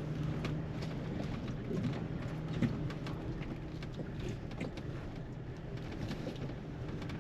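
Jeep engine running low and steady while driving slowly, with scattered light crackles over it.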